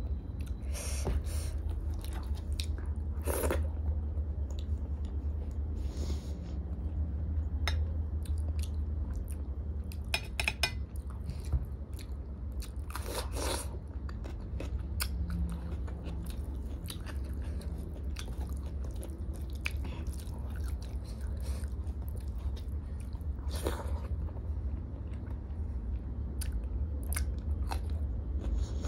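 Close-up chewing and mouth sounds of someone eating rice and lentil dal by hand, with soft wet clicks and smacks and a few louder sharp clicks spread through. A steady low hum runs underneath.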